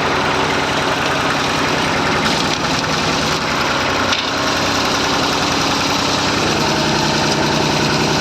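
Massey Ferguson 35 tractor engine running steadily, with a rapid, even beat of firing pulses.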